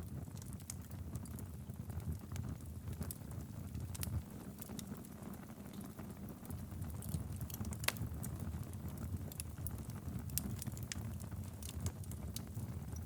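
Wood fire crackling in a fireplace: a steady low rumble of flames with irregular small pops and snaps, one sharper pop a little past the middle.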